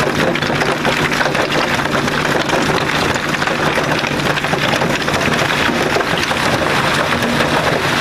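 Old truck engine running steadily.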